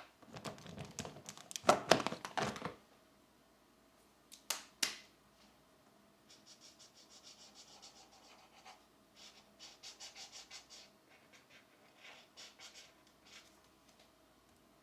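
Coloured pencil on paper: a louder rustle and scrape of handling in the first few seconds, two short swishes, then quick repeated back-and-forth coloring strokes from about six seconds in.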